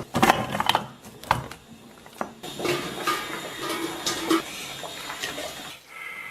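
A few knife knocks on a cutting board, then quieter rustling and handling sounds of kitchen prep.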